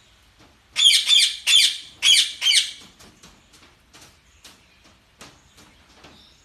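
Budgerigars calling: a loud run of about five harsh squawks about a second in, followed by scattered soft chirps and clicks.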